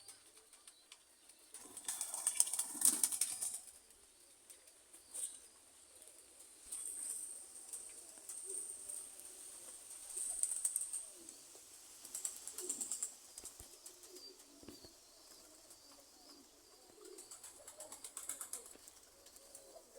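Domestic pigeons cooing softly, with intermittent rustling and wing flapping. The loudest rustling burst comes about two seconds in and lasts a second or so.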